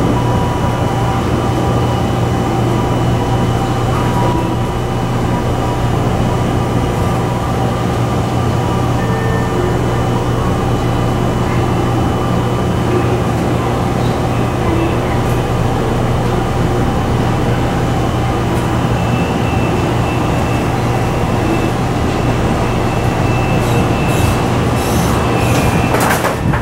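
Steady hum of an electric commuter train heard from on board, with a strong low drone and faint steady whines above it. A few sharp clicks come near the end.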